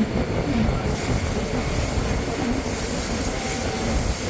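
Bernina line train running along the track: steady rumble of wheels and carriage, with the hiss growing louder about a second in and a faint thin squeal from the wheels late on.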